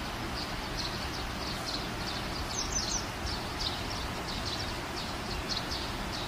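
Small birds chirping, short high notes repeating a few times a second, over a steady background hiss and low hum.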